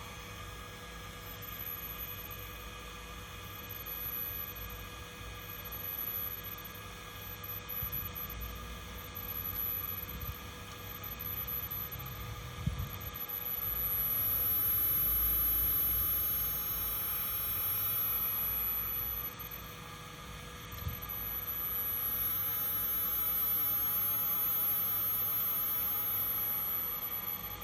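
Omron 400 W servo motor on an R7D-BP04H drive running in repeated motion cycles with a high-pitched whine. First come short bursts about every two seconds, then two longer runs, each starting with a click.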